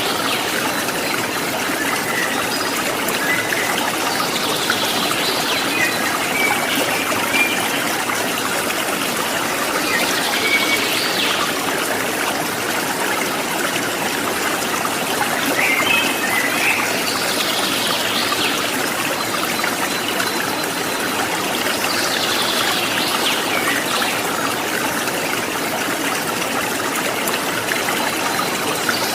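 Water trickling and splashing steadily, like a small stream, with a bird calling about every six seconds in short falling calls above the water sound, plus a few brief chirps.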